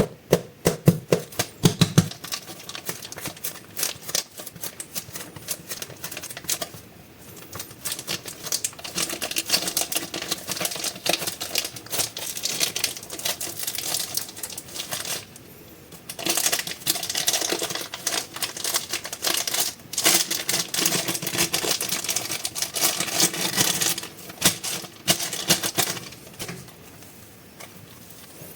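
Soft air-dry clay and its plastic packaging handled up close, with dense, quick crinkling and crackling in long stretches and short pauses between. The first two seconds carry heavier soft thumps.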